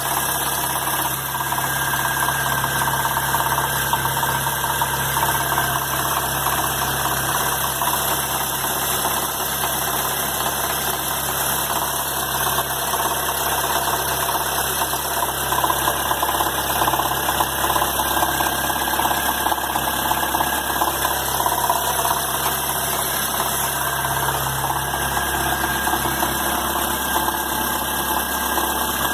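2011 Chevrolet Agile LTZ's 1.4-litre engine running steadily, making an abnormal noise whose cause the owner does not know.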